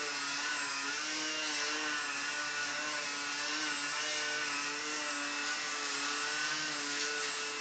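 Electric motor and propeller of a micro foam Techone mini Yak54 RC airplane hovering: a steady buzzing whine that wavers slightly in pitch as the throttle is worked.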